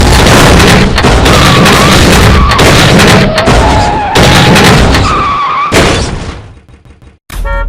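Car crash sound effect: tyres screeching with a series of loud crunching impacts, fading away about six seconds in. A brief silence follows, and music begins just before the end.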